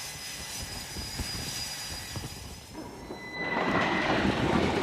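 Jet aircraft engine on a carrier flight deck: a steady high-pitched turbine whine over a hiss, with a louder rushing engine noise rising in about three and a half seconds in.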